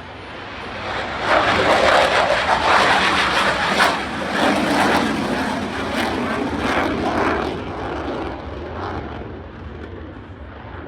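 Military aircraft flying past: its engine noise swells quickly about a second in, is loudest for the next few seconds, then slowly fades away.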